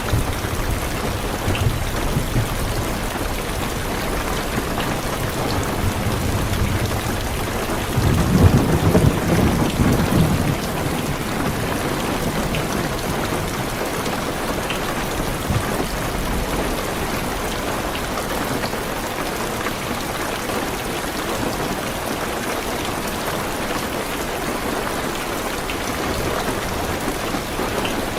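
Heavy rain falling steadily on a car's roof and windows, with scattered louder drops. Low thunder rumbles through the first half, with a louder peal about eight seconds in that lasts a couple of seconds.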